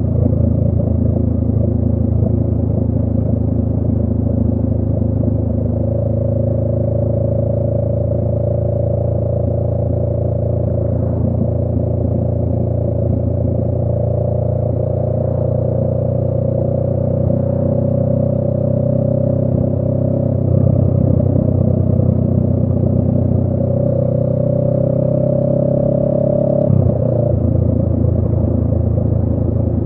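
2018 Honda Rebel 500's parallel-twin engine running through a Radiant Cycles Shorty GP aftermarket exhaust at road speed, its note rising slowly as the bike gathers speed. The note drops suddenly near the end.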